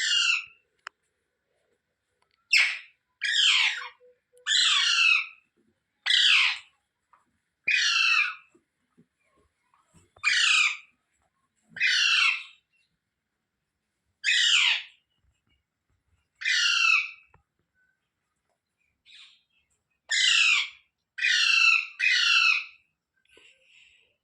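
Parrot giving loud, harsh squawks over and over, about a dozen calls, each under a second long and one to two seconds apart.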